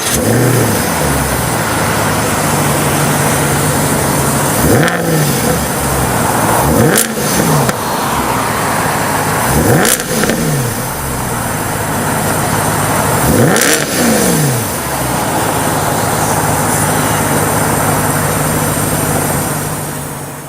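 Mercedes SLS AMG's 6.2-litre V8 idling with a steady burble, blipped about five times in quick free revs that rise and fall back to idle, the last about two-thirds of the way in. It then settles back to idle.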